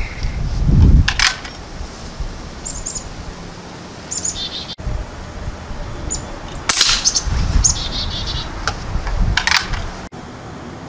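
Small birds chirping in short high bursts, several times, with a few brief sharp noises and low rumbles between them.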